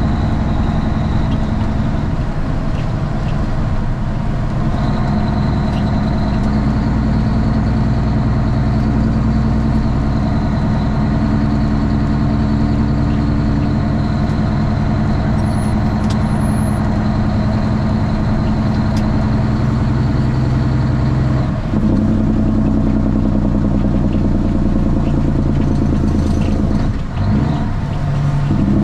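Straight-piped Cummins ISX inline-six diesel in a Kenworth T800 running steadily, heard from inside the cab. The engine note drops and changes pitch briefly twice in the last third.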